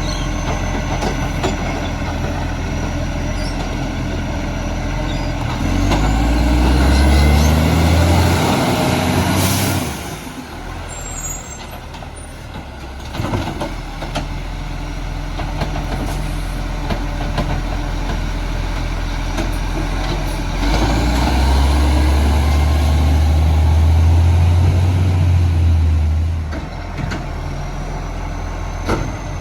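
Garbage truck's diesel engine running, rising in speed and loudness twice for a few seconds each. A sharp burst of air-brake hiss comes about a third of the way in.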